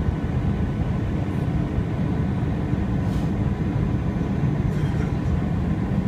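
Steady low rumble of an Airbus A320's engines and airflow heard inside the cabin, with faint steady hum tones above it.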